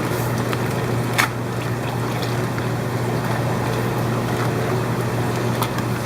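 Steady hum and rush of fish-room equipment, aquarium pumps and moving water, with a few faint clicks and a short chirp about a second in.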